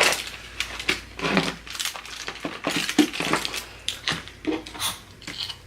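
Close-up eating sounds from a seafood boil: irregular cracking and crunching of crab shells, with wet chewing and a few brief hums.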